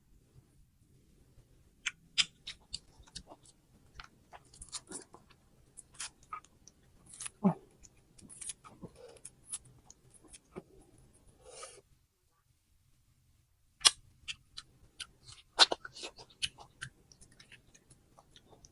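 Close-up crunching and chewing of firm raw fruit: irregular sharp crunches and wet mouth clicks. They stop for about two seconds around two-thirds of the way through, then resume with the loudest crunches.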